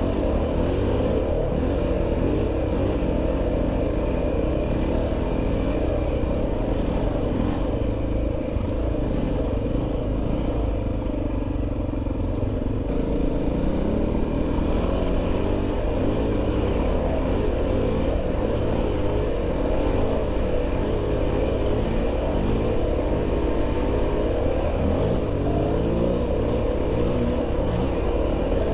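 Dual-sport motorcycle engine running under load off-road, its revs rising and falling continually.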